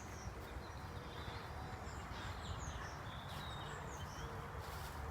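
Small birds chirping faintly here and there over a steady low outdoor rumble, with a couple of brief rustles about three seconds in and near the end.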